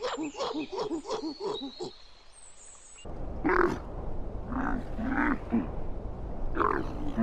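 Animal calls: a quick run of short repeated calls, about four a second, for the first two seconds, then after a cut a few louder, separate calls over a rough background noise.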